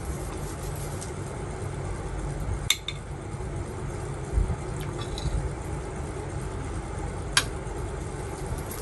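Utensils clinking against dishware twice, sharp ringing clicks about five seconds apart, over a steady low rumble.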